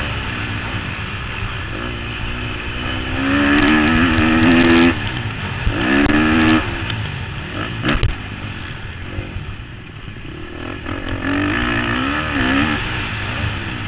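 2013 KTM 250 SX-F four-stroke single-cylinder motocross engine revving hard under racing throttle, its pitch climbing and dropping again and again through gear changes and throttle chops. A sharp knock comes about eight seconds in, and the engine eases off for a moment after it.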